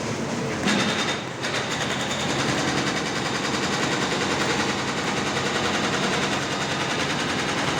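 Diamond wire saw running, its wire cutting through concrete with a steady noise carrying a fast, even rattle.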